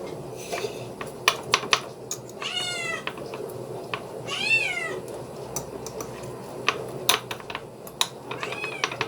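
A cat meowing three times, each an arching call, with scattered sharp clicks and taps between the meows.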